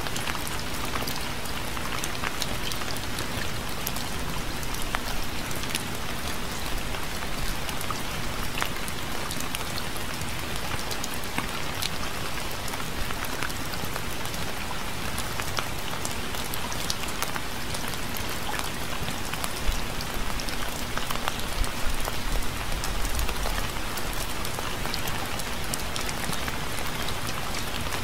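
Steady rain falling on surfaces, an even hiss dotted with the sharp ticks of individual drops. There is a brief low rumble about three quarters of the way through.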